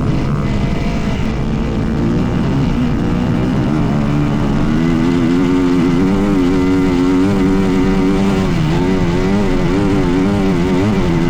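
Dirt bike engine running hard, its pitch wavering up and down with the throttle. It grows slightly louder and clearer from about four seconds in.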